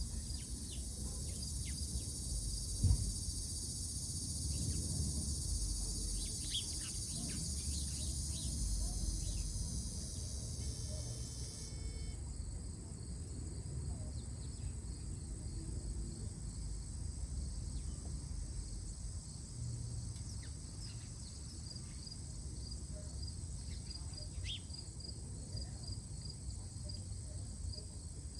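Outdoor insect chorus: a steady high buzzing with an evenly pulsed, cricket-like chirp. One buzzing layer cuts off about halfway through, while the pulsed chirping carries on. A low rumble sits underneath, with a single sharp knock a few seconds in and a few brief high chirps.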